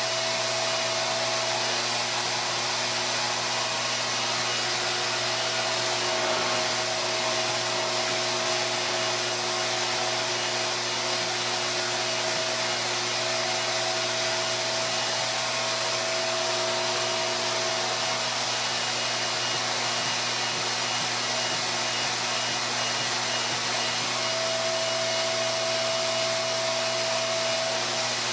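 RevAir reverse hair dryer running steadily, its motor sucking the hair into the wand by suction: an even rush of air over a low hum and a faint high whine, with one middle tone that drops in and out now and then.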